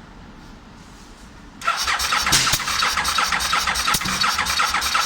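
Starter cranking the 2004 Aprilia RSV1000R Factory's V-twin, starting suddenly about a second and a half in and turning over rapidly for several seconds without the engine catching. The bike only misfires and won't keep running, a no-start despite a working dash.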